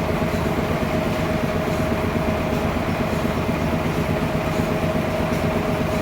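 Sawmill machinery running steadily during the sawing of a trembesi log, an even mechanical rumble with a constant hum-like tone and no change in pitch or level.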